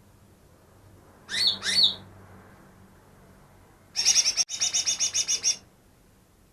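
Green leafbird (cucak ijo) singing. It gives two quick looping whistles, then about two seconds later a fast, even run of about a dozen sharp notes.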